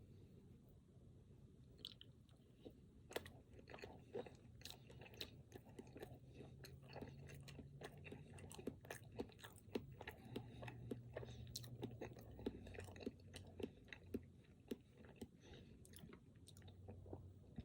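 Faint, close-miked chewing of a chocolate-coated, cream-filled snack cake: soft, wet mouth clicks and smacks. They are sparse at first and come thick and fast from about three seconds in.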